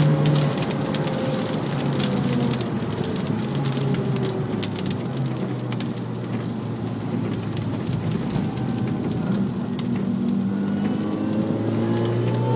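Mini Cooper S R53's supercharged 1.6-litre four-cylinder engine heard from inside the cabin: its note falls away as the car slows, then climbs again near the end as it accelerates. Rain and spray hit the car throughout as a steady hiss with scattered fine ticks.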